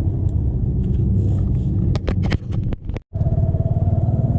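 Motorcycle engine running steadily while riding, with a quick run of sharp clicks and knocks about two seconds in. The sound cuts out briefly just after three seconds in, then the engine continues.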